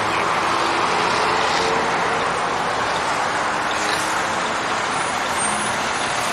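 Steady noise of highway traffic and running vehicle engines at a roadside crash scene, heard through a police body-worn camera.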